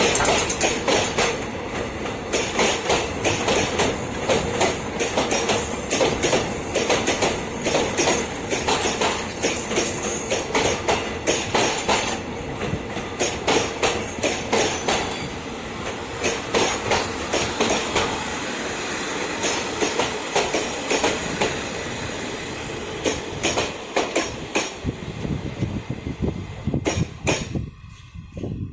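A train running past on the track, its wheels clacking irregularly over rail joints, with a thin high wheel whine for several seconds; the sound drops away abruptly near the end.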